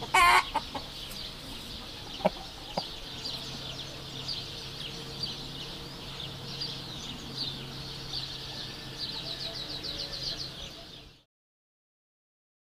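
Chickens: one loud squawk right at the start, then many short high peeping calls in a dense run with a quick flurry toward the end, plus a couple of brief knocks. It cuts off abruptly about eleven seconds in, leaving silence.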